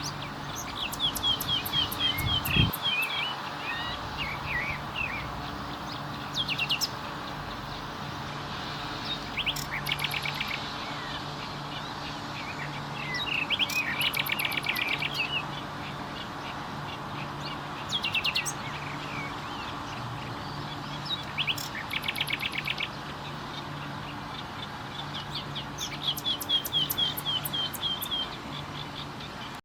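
Common nightingale singing: separate phrases of rapid repeated notes and trills, a few seconds apart, over a faint low steady hum.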